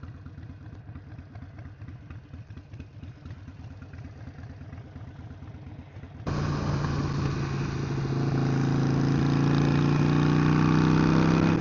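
Harley-Davidson Sportster 883's air-cooled V-twin running at low speed with an uneven, pulsing beat. About six seconds in, the sound jumps suddenly louder into a steady, even engine note that builds a little towards the end.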